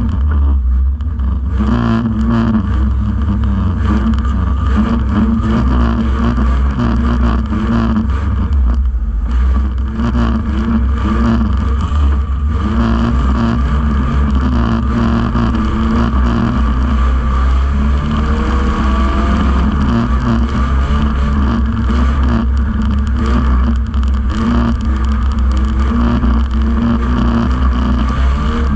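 Banger racing car's engine running hard with the throttle rising and falling, heard from inside the stripped-out shell, with frequent knocks and rattles from the bodywork.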